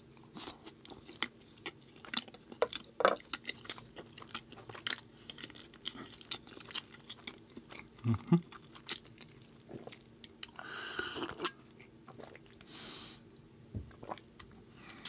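Close-miked chewing and crunching of a gluten-free chocolate chip cookie spread with vegan cream cheese, full of small crisp crackles and wet mouth clicks. Two short hissing noises come in the second half.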